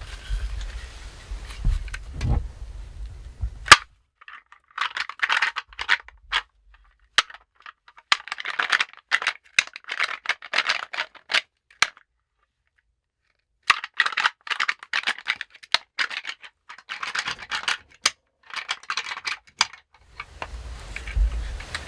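Clusters of sharp clicks and clattering, each run lasting a second or two, with short gaps of silence between them and a longer pause about halfway through.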